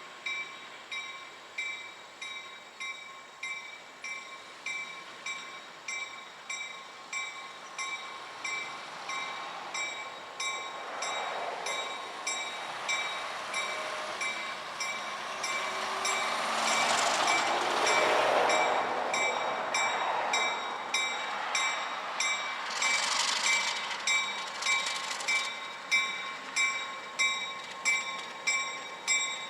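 Railroad grade crossing bell ringing steadily, about once a second, while a train rolls past. The noise of the passing train swells in the middle and is loudest about halfway through, with a brief high hiss a little later.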